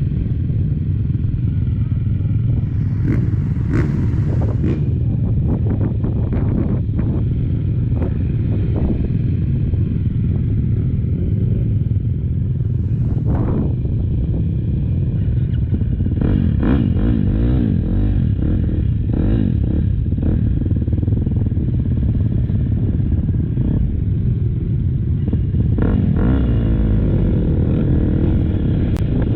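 Motocross bike engine revving up and down as it races, its pitch rising and falling again and again, with scattered clattering knocks from the bike.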